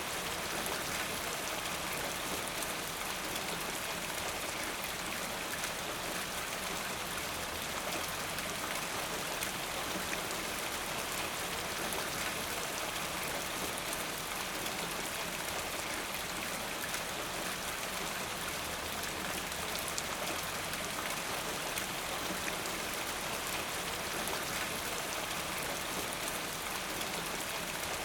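Steady rainfall: an even hiss of many raindrops hitting a surface, with fine patter throughout.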